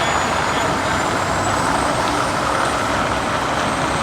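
Two-stroke Detroit Diesel V8 in a Peterbilt 352 cab-over truck, running steadily and loudly.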